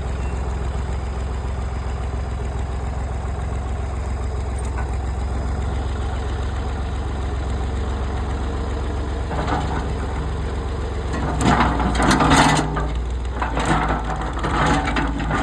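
Old farm tractor engine running steadily at low speed. From about nine seconds in there are louder, rough, irregular bursts of noise over the engine, strongest a couple of seconds before the end.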